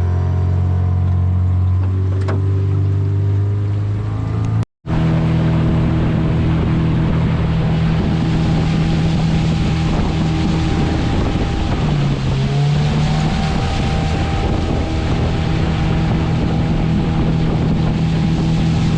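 Boat's outboard motor running steadily under way, with wind on the microphone. The sound cuts out for a moment about five seconds in, and the engine note dips briefly then settles slightly higher about twelve seconds in.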